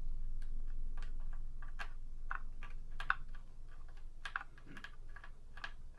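Screwdriver working a small screw out of a vintage Singer 223 sewing machine's metal body: a string of light, irregular clicks and ticks, a few a second.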